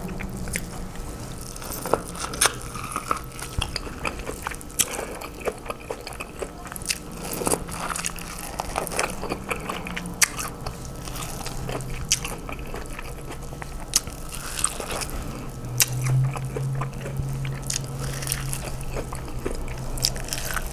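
A person eating a seafood boil close to the microphone: chewing and biting, with many small, sharp clicks and crunches scattered through.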